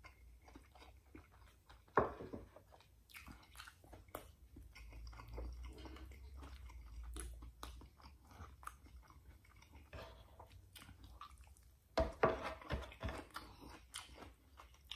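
Close chewing and crunching of fried milkfish and rice, with short, sharp crunches scattered throughout; the loudest bites come about two seconds in and again near the end.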